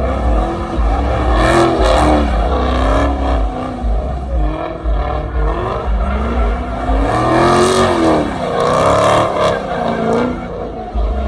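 A loud car engine revving repeatedly, its pitch climbing and falling several times, with a few short sharp cracks among the revs.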